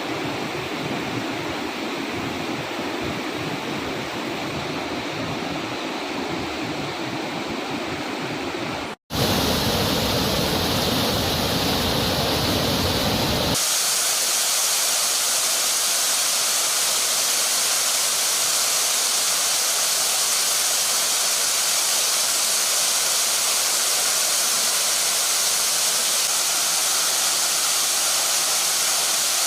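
Steady rush of heavy floodwater pouring over a tank's overflow weir and down a waterfall in spate. The sound breaks off for an instant about nine seconds in. It changes character at that break and again a few seconds later, turning more hissy.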